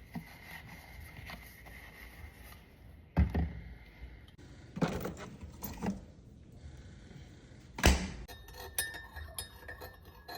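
A few separate knocks and thumps, then, near the end, rapid light clinking like glass or small hard objects tapping together.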